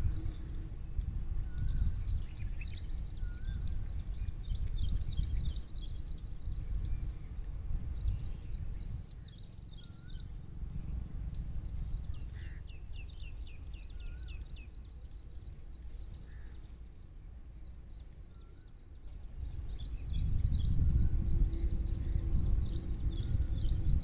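Small birds singing: quick runs of high, sharply falling chirps repeated again and again, with a short, lower whistled note every couple of seconds from another bird. A low rumble runs underneath and grows louder near the end.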